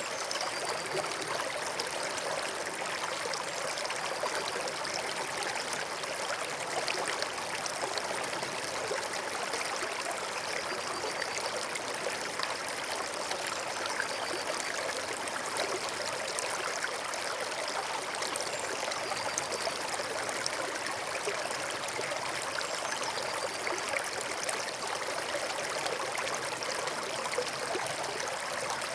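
Forest stream flowing steadily, an even trickling and splashing of water with no breaks.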